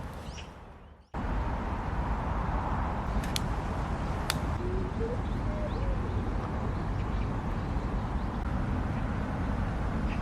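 Steady outdoor ambience: a continuous low rushing noise with faint bird chirps and two sharp clicks. The sound fades out briefly and cuts back in about a second in.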